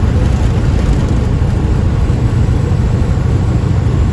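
Steady low rumble of a semi truck running, with no change in level.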